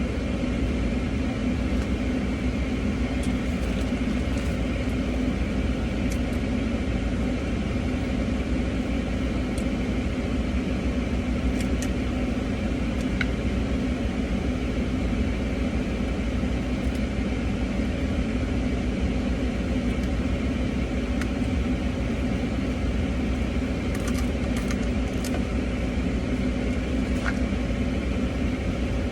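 Steady hum of a parked, running car heard from inside the cabin, with a few faint clicks scattered through it.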